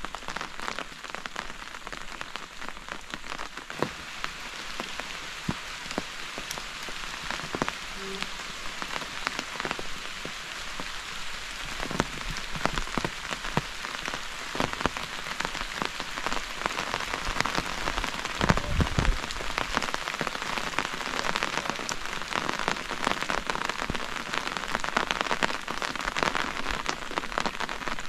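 Steady rain falling, an even hiss thick with the ticks of individual drops, growing slightly heavier as it goes on. A few dull low thumps come about twelve and again about eighteen seconds in.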